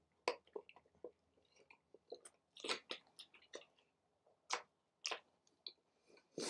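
A person biting into and chewing a mouthful of sandwich close to the microphone: a quiet run of short, irregular crunches and mouth clicks.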